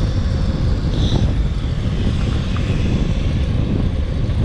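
Steady low rumble of wind buffeting the microphone while riding a fixed-gear bike, with a brief high chirp about a second in.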